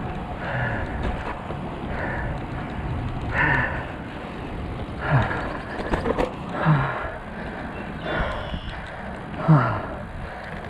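A cyclist's heavy, voiced breathing under hard effort, a short falling grunt-like exhale about every second and a half, over a steady rumble of wind on the microphone.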